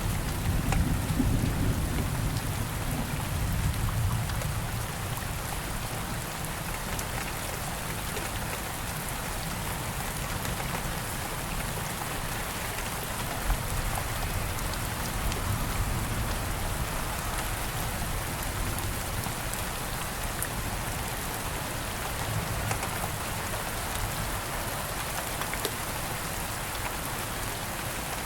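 Steady rain falling, with scattered drop ticks. A low rumble, likely distant thunder, fades out over the first few seconds.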